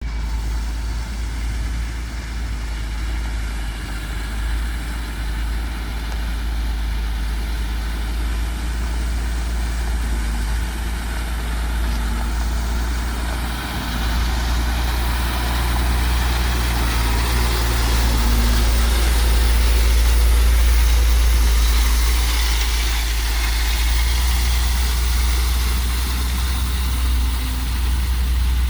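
Dump truck's diesel engine running steadily under a deep rumble while the truck spreads stone, growing louder about halfway through and then easing a little.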